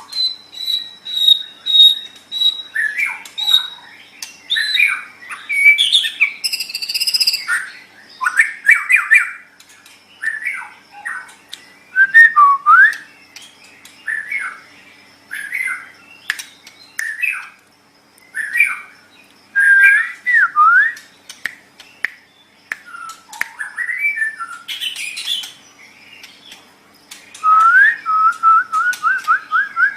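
White-rumped shama (murai batu) singing a long run of varied, loud whistled phrases with short pauses between them: a held high whistle near the start, sliding notes and trills, and a quick string of repeated notes near the end.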